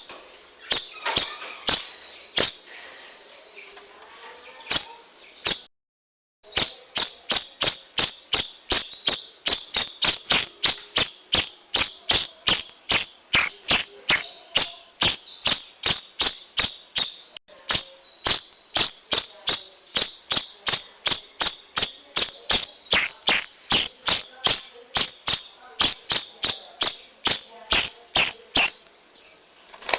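Cucak rawis songbird singing a long, fast run of sharp, high chirps, about three a second, with a short break about six seconds in.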